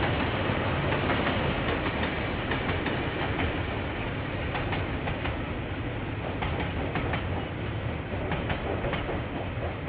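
KiwiRail train rolling past, its wheels clattering and clicking over the rail joints in a steady, irregular run of sharp clicks over dense rumbling noise. The sound is picked up through a security camera's microphone, which cuts off the high end.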